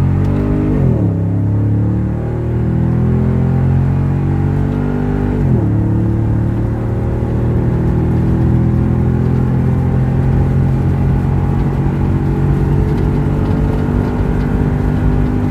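2017 Toyota Tundra V8 under hard acceleration on a test drive after ECU tuning. The engine note climbs, drops sharply at gear upshifts about a second in and again about five and a half seconds in, then holds a steady pitch.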